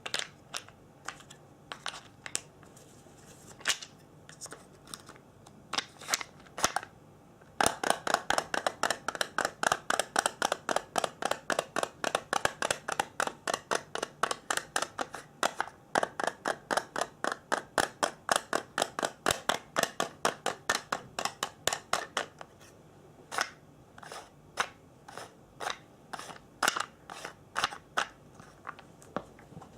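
Sharp, crisp clicks at close range: scattered at first, then a fast, even run of about three or four a second for some fourteen seconds, then scattered again near the end.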